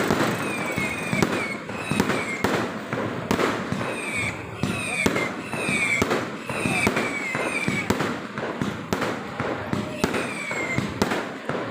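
Fireworks going off in a dense, continuous barrage of sharp bangs and crackles, with many short whistles falling in pitch.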